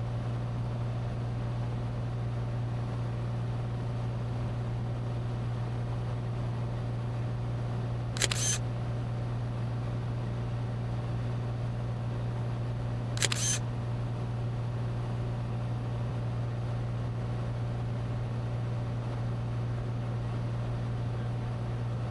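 Steady low drone of a Cessna 182T's engine and propeller in flight, with two short sharp clicks about five seconds apart, near the middle.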